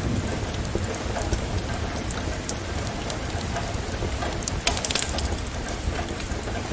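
Steady rain with a wood fire crackling over it. A quick cluster of sharp pops about two-thirds of the way through is the loudest moment.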